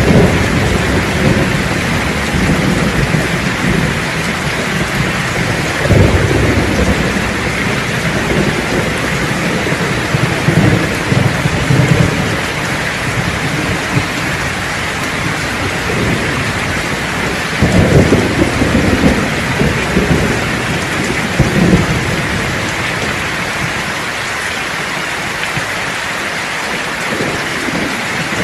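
Steady rain with thunder rumbling under it. Sharper thunderclaps come about 6 seconds in and again about 18 seconds in, and the rumble dies away near the end.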